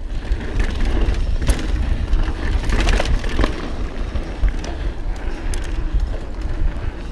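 Mountain bike rolling fast over rough dirt singletrack: steady tyre and wind rumble on the camera mic, with scattered sharp clicks and clatter from the bike over the bumps.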